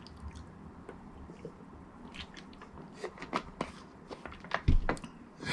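Close-miked mouth sounds after eating: wet clicks and smacks of lips and tongue, scattered and irregular, with a louder low thump about three-quarters of the way through.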